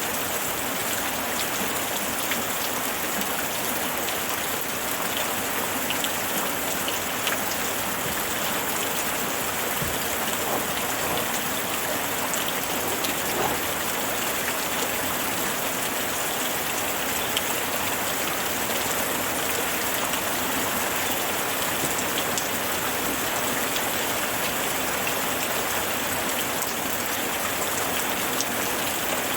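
Steady rain falling, with a dense hiss and scattered individual drops ticking on a surface.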